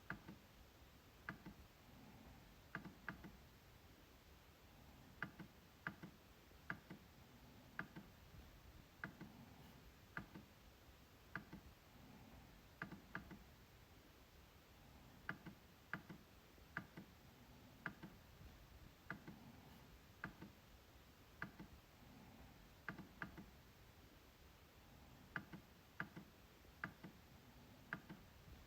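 MacBook trackpad being clicked: sharp, short clicks at an uneven pace of about one a second, often coming as quick double clicks.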